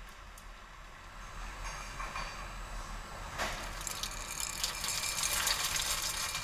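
Fermentation-lab equipment venting pressurised gas in a loud hiss that starts suddenly about three seconds in and cuts off near the end, after a few seconds of quieter steady noise.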